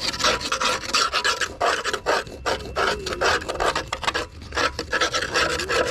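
Screwdriver scraping caked, muddy grass clippings off the underside of a lawn tractor mower deck in quick, irregular repeated strokes.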